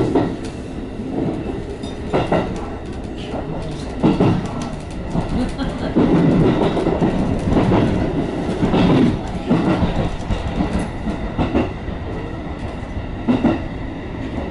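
JR West 221 series electric train running, heard inside the car: a steady wheel-and-rail rumble broken by irregular loud clacks, about every two seconds, as the wheels cross points and rail joints.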